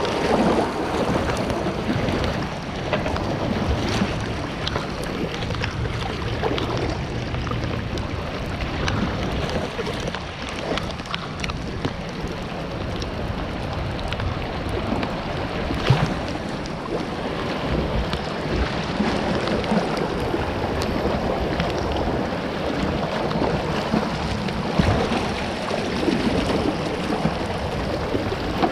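Water of a flood-stage creek rushing and splashing around a kayak, with wind buffeting the microphone and a few brief knocks.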